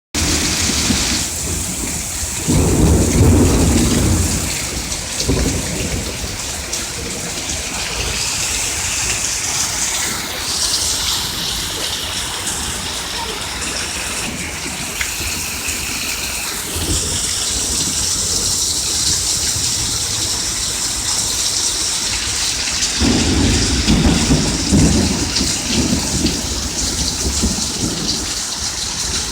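Thunderstorm: steady rain hissing, with thunder rumbling twice, about two and a half seconds in and again near the end.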